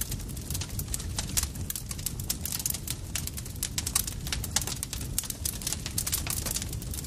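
Campfire burning and crackling, with dense irregular pops and snaps over a low steady rumble.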